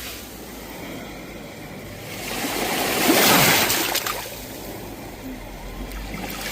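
Sea waves surging: one wave builds about two seconds in, peaks near the middle and fades back, and the next begins to rise near the end.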